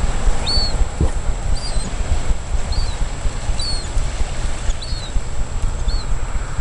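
Wind rumbling on the microphone, with a small bird's thin, high chirps repeating about once a second.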